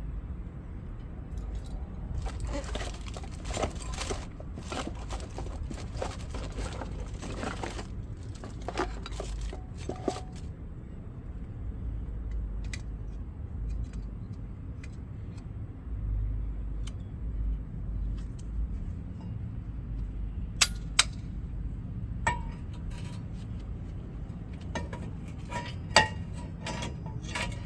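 Small metal brake parts (pads and their clips) clinking and rattling as they are handled and fitted, in a busy run of light clicks early on, then a few single sharp clicks near the end.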